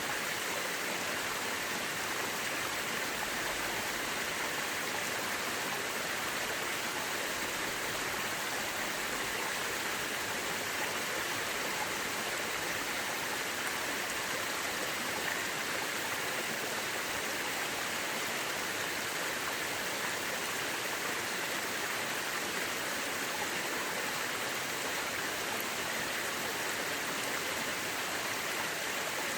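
Mountain river rushing steadily over rocks, an even, unbroken flow of water.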